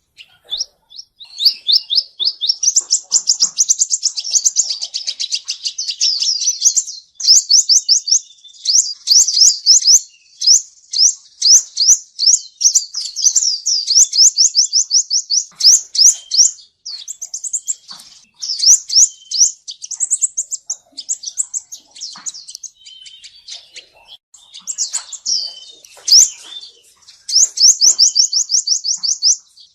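Male sunbird singing: long rapid trills of high, thin, downward-slurred chirps, several notes a second, in runs of a few seconds broken by short pauses.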